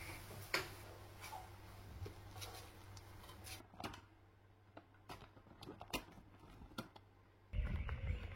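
Scattered light clicks and taps, then a louder low rumble starts abruptly near the end.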